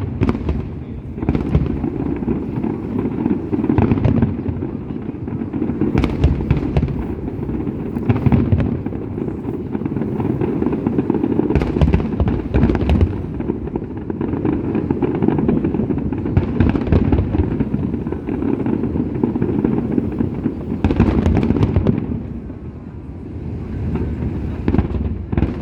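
Aerial fireworks display: a continuous dense rumble of shell bursts, with sharp bangs and crackles standing out every one to three seconds, easing a little near the end.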